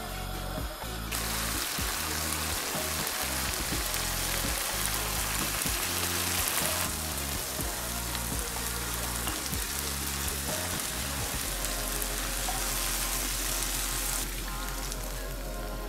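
Beans, tomatoes and onion sizzling hard in a frying pan over a high gas flame. The sizzle starts about a second in and drops off near the end, with background music underneath.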